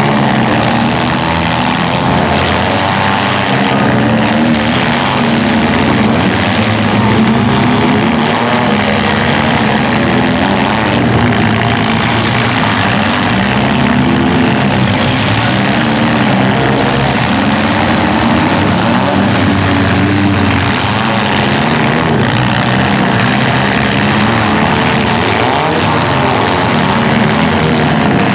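Several compact demolition-derby cars' engines running and revving hard together, overlapping and rising and falling in pitch without let-up.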